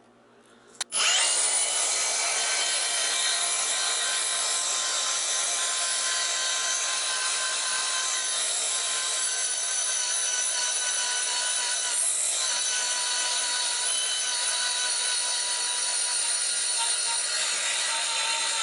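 A power cutting tool starts about a second in and runs steadily with a high whine, cutting through a transformer's laminated steel core along the line where the laminations end so the core will come apart.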